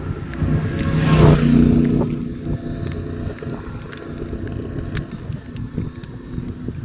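A motor vehicle drives past. Its engine and tyre noise swells to a peak about a second in and fades away over the next few seconds.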